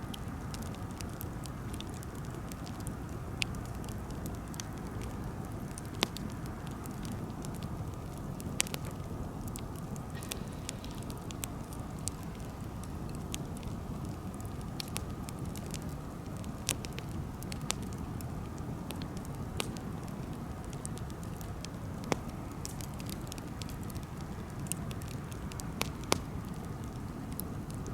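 Wood campfire burning: a steady low rush of flame with scattered sharp crackles and pops at irregular intervals.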